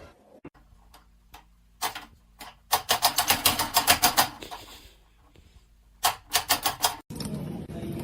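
A rapid series of sharp clicks or taps, about seven a second, in two runs: a longer one from about three seconds in and a shorter one near the end. A steady background noise follows an abrupt cut.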